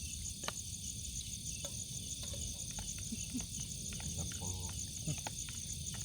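Crickets calling at night: a steady, high, rapidly pulsing trill, with scattered small clicks and taps over it.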